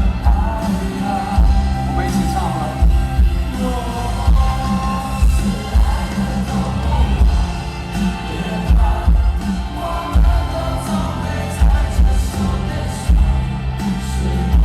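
Live rock band playing with a singer over a heavy, steady drum beat.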